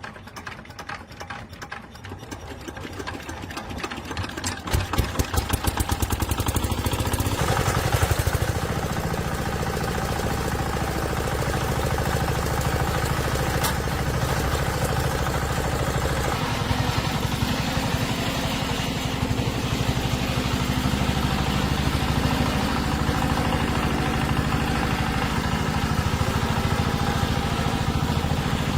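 Old tractor diesel engine starting: a quick, even pulsing speeds up and grows louder over the first few seconds, catches about five seconds in, and then runs steadily.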